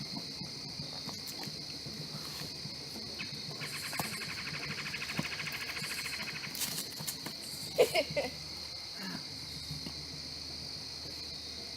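Steady, high-pitched chorus of crickets, with a rapid pulsing trill from a nearer insect a few seconds in. A few short, louder sounds break in about eight seconds in.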